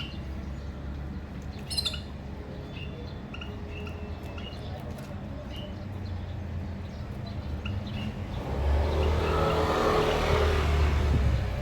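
Small cage birds giving short, scattered chirps. About two-thirds of the way in, a passing vehicle rumbles by and is the loudest sound for about three seconds.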